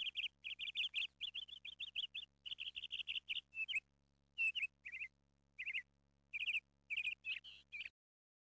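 A small songbird chirping in quick runs of high, trilled notes, in short phrases with gaps between them, cutting off suddenly near the end.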